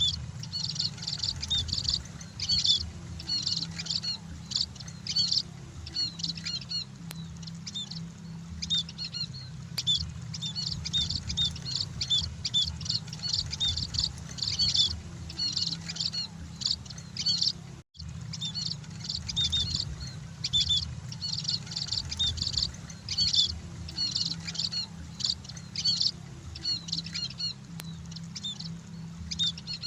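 Many emprit (munias) chirping in dense, overlapping short high calls over a steady low hum. The sound drops out abruptly for an instant a little past halfway.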